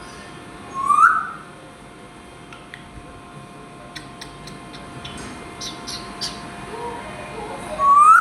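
A parrot whistling: two short rising whistles, one about a second in and one at the end, with faint chirps and clicks between, over a faint steady hum.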